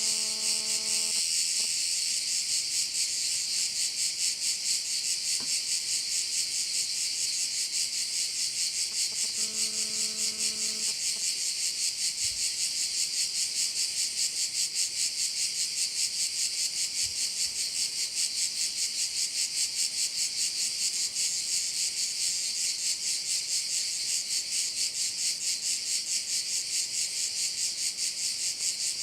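Dense, unbroken chorus of singing insects: a high, fast-pulsing buzz that holds steady throughout.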